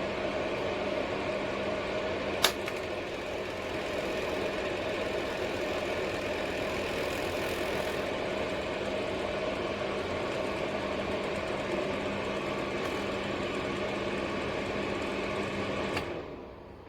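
Mini ceramic fan heater running, its fan giving a steady noise over a low hum. A sharp click comes about two and a half seconds in, and another near the end, after which the fan noise falls away.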